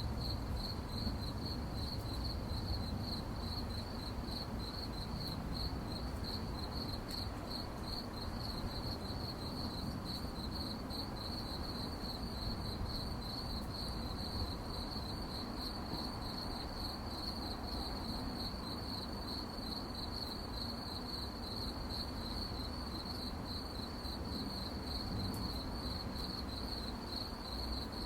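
Crickets chirping in a steady, rapid, evenly pulsed trill that never lets up, over a low steady rumble.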